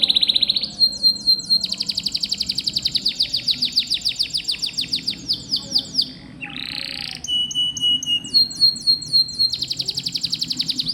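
Domestic canary singing: long, fast rolling trills of rapidly repeated notes, broken about six seconds in by a short buzzy note and then a held whistle, before the trills resume.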